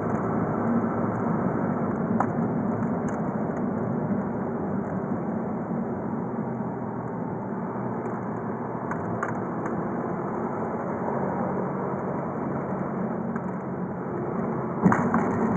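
The stock VW Golf V's 2.0 TDI BKD four-cylinder turbodiesel running steadily while driving, with road noise and a few light rattling clicks from a vibrating microphone. Near the end the sound jumps suddenly louder.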